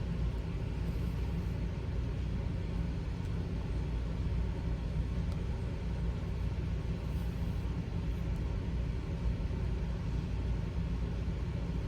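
Steady low background rumble, even in level, with only faint, light ticks above it.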